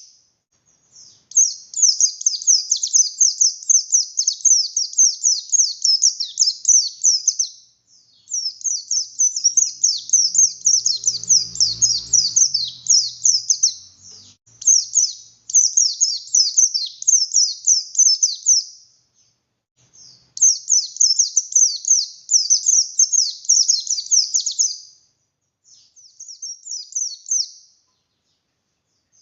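A pleci buxtoni white-eye singing hard: long, fast runs of high, sharp chirping notes, each phrase lasting several seconds with short pauses between, and a longer pause near the end.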